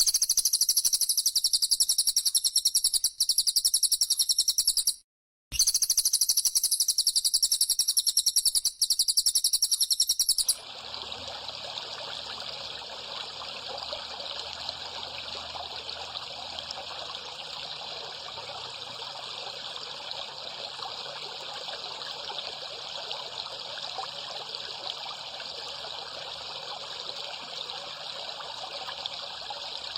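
A fast, high-pitched trilling call, repeated without a change for about ten seconds with one short break, from a bird-training (masteran) recording; it stops abruptly and gives way to a steady rush like running water.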